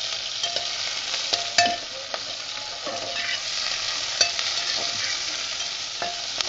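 Sliced brinjal and green chillies sizzling in hot oil in a steel pot, with a steady hiss. A metal spatula stirring them clinks and scrapes against the pot at irregular moments, about once a second.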